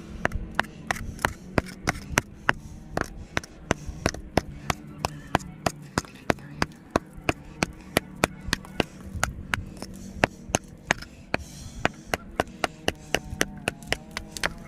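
Rapid, evenly paced chopping strikes on wood, about three a second, each a sharp crack, over a faint steady hum.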